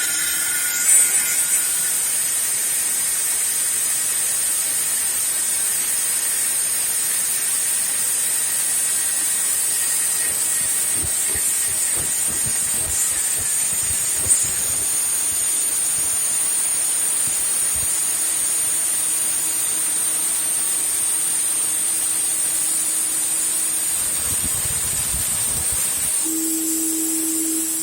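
Home-built CNC router's spindle running with a steady high whine and hiss, slowly drilling a hole at a very slow feed. A single sharp click comes about 14 seconds in, and near the end the whine shifts and a lower steady hum comes in.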